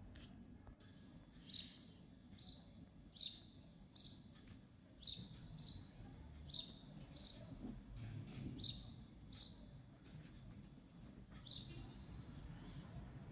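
A bird chirping: short, high, falling chirps about once a second, often in pairs, stopping near the end.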